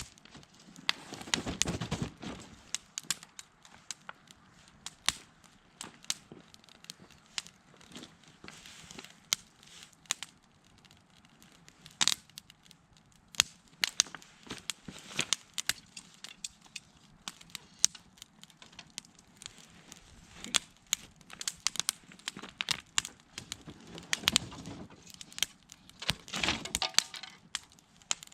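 Wood bonfire crackling, with irregular sharp pops and snaps. Longer rustling swells come about a second in and again near the end.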